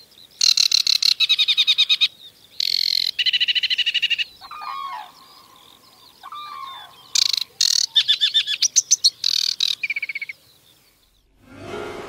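Aquatic warbler singing: a few phrases of rapid, rattling trills, each one to two seconds long, with fainter, lower sliding notes between them.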